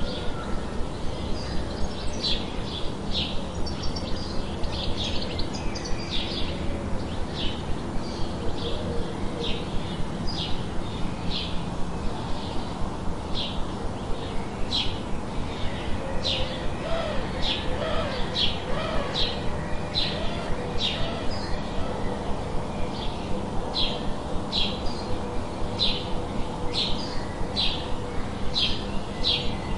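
Forest ambience: a bird repeats short, high, slightly falling chirps about one to two times a second over steady background noise.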